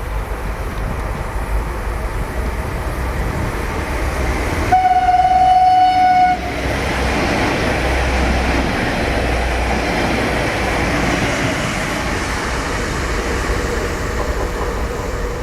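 Stadler FLIRT diesel multiple unit sounding one steady horn note for about a second and a half, about five seconds in, over the noise of the train running. After the horn the rushing of the passing train swells and holds.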